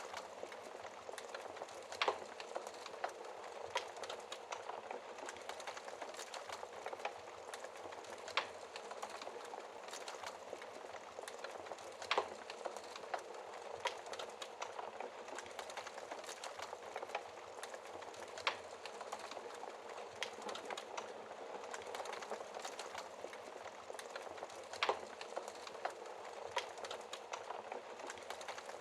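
Wood fire crackling steadily in a fireplace, with a constant patter of small crackles and a few louder pops scattered through.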